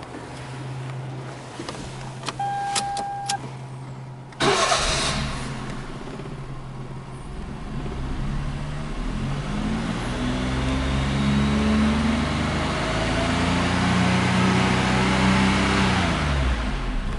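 Daihatsu Mira Custom RS's 660 cc turbocharged three-cylinder KF engine: a short beep and a few clicks, then the starter cranks and the engine catches suddenly about four seconds in. It idles, then is revved up and down several times, and the revs fall away near the end.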